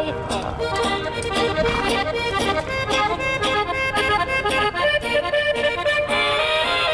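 Norteño-style music: an accordion playing an instrumental run of quick notes over a steady band accompaniment, between sung verses.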